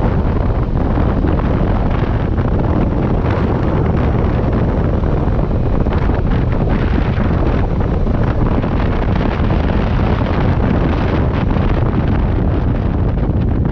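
Heavy wind on the microphone of a moving motorcycle at road speed, a loud, steady rush of noise that buries the engine sound.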